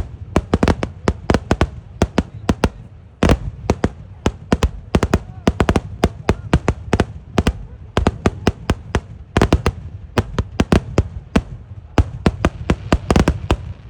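Kerala temple-festival fireworks (vedikettu) in an eeduvedi round: a rapid, irregular barrage of loud explosions, several bangs a second, over a continuous low rumble of echoing blasts.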